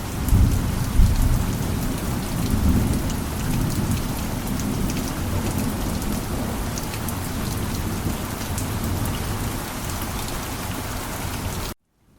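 Heavy rain falling steadily, with a low thunder rumble over the first few seconds. Near the end the sound cuts off abruptly for a moment, then fades back in.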